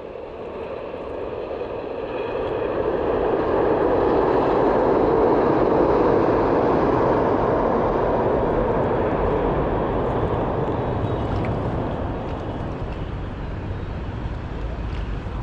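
A passing vehicle's rushing rumble that builds over the first few seconds, peaks about halfway through and then slowly fades.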